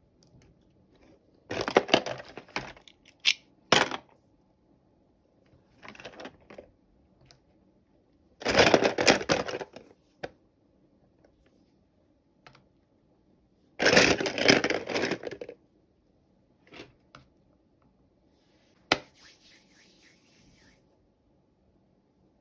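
Toy packaging being handled and torn open: several bursts of crinkling and tearing, with a few sharp clicks in between.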